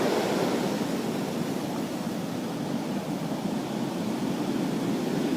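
Heavy storm surf breaking on shore: a steady rushing noise that eases a little in the middle and swells again near the end.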